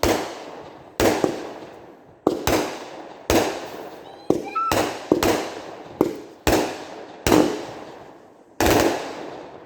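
Consumer aerial fireworks going off in a rapid string of about a dozen loud bangs, roughly one a second at uneven spacing, each echoing away before the next.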